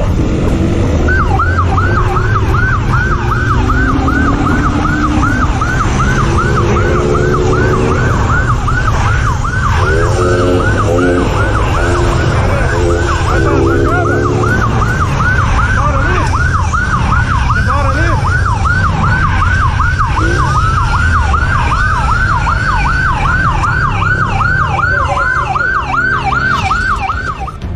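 Police siren on the yelp setting, its pitch sweeping up and down rapidly about two or three times a second, over a steady low rumble.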